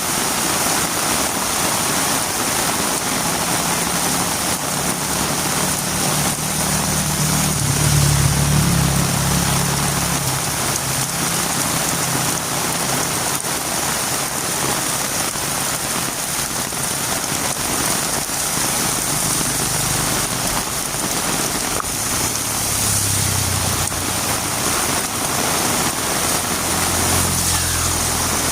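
Heavy rain falling steadily on a road. A vehicle engine hums through it, growing louder to a peak about eight seconds in and fading, and another passes near the end.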